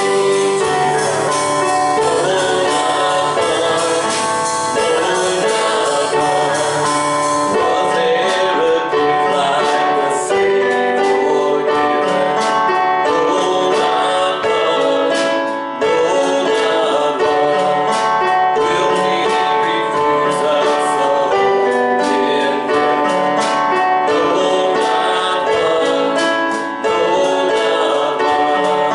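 Gospel-style worship music: voices singing together with instrumental accompaniment and percussion, continuous throughout.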